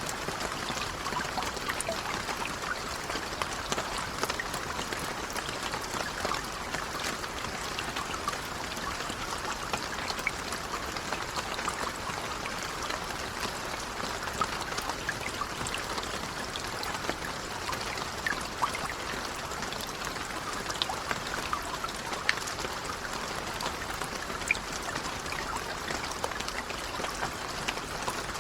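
Steady gentle rain, a constant patter of drops with scattered individual drop ticks.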